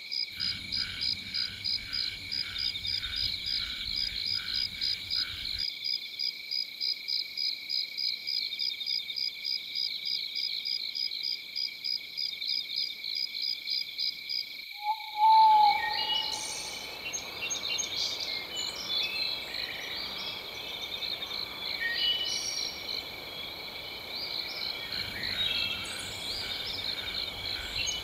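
A night chorus of frogs and insects: a steady high whine with a rapid, evenly pulsing call over it. About halfway the soundscape switches to a short loud whistled note, then scattered bird chirps over a steady hiss of running water.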